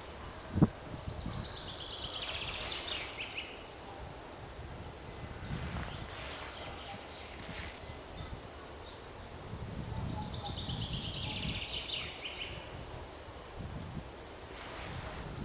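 Outdoor ambience with a small songbird singing the same short, fast trilled phrase twice, about eight seconds apart, each falling in pitch toward its end. A single sharp knock sounds just under a second in, and a faint steady high whine runs underneath.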